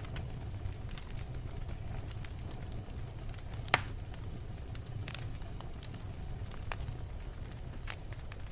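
Wood fire of burning logs crackling over a steady low rumble, with scattered small pops and one sharp louder pop a little under four seconds in.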